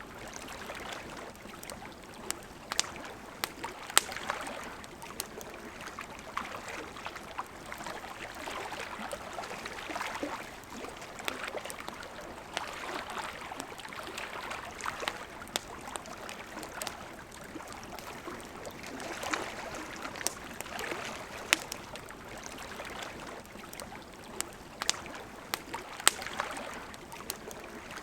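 Wood campfire crackling, with frequent sharp pops scattered irregularly, over the steady murmur of flowing river water.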